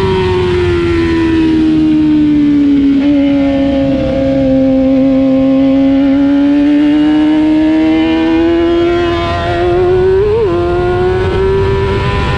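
Race motorcycle engine heard onboard at racing speed. Its pitch sinks over the first few seconds, then climbs slowly and steadily. About ten seconds in there is a brief jump and drop, then the note holds steady.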